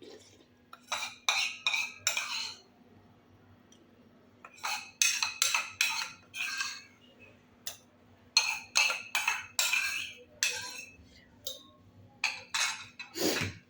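A meal being eaten off a plate: a series of short, sharp scrapes and clinks of utensils or fingers against the plate, in irregular clusters, over a faint steady hum.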